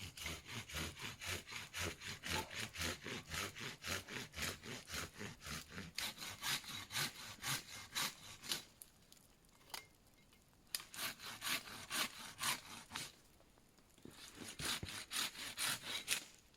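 Hand saw cutting wood with quick, even back-and-forth strokes, in three bouts separated by two short pauses, the first about halfway through and the second about two-thirds through.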